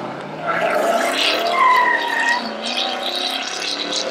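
Car engine revving as it pulls away, its pitch climbing and then dropping. A short high-pitched squeal rings out over it about one and a half seconds in.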